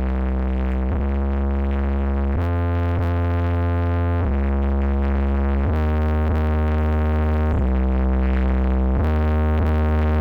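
Synthesizer music with very heavy bass, played loud through a sound system with two subwoofers during a sound check. Sustained chords change every second or so, and the volume creeps slowly upward.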